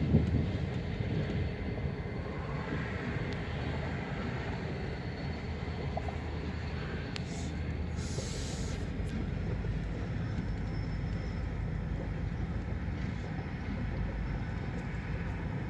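Freight train rolling past with a steady low rumble of wheels and cars, with a brief hiss about eight seconds in.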